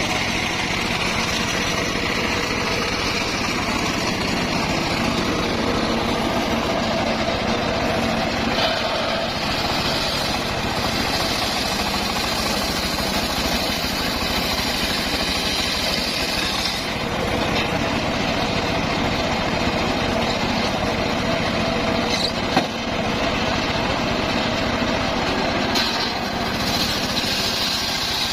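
Circular sawmill running steadily while it slices a log into boards. The sound turns brighter and higher during stretches of cutting, about a third of the way in and again near the end.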